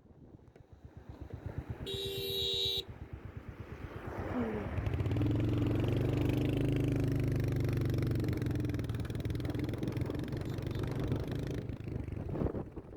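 A motor vehicle's engine: a fast low putter at first, a brief high tone about two seconds in, then the engine pulls and runs louder and steady from about five seconds in.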